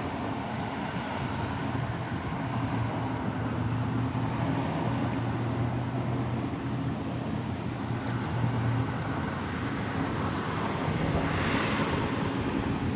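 Steady engine drone with a low, even hum that fades about nine seconds in, over wind and surf noise. Near the end a brief rushing swell rises.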